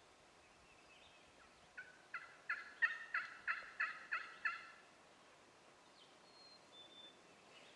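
Turkey yelping: a run of about eight evenly spaced notes, starting about two seconds in and lasting about three seconds.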